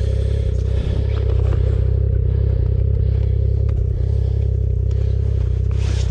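Motor vehicle engine running steadily at an even, low pitch.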